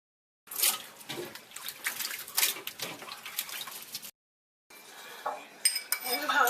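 Clinking and clatter of dishes and kitchen containers being handled, in two stretches with a short break of dead silence between them.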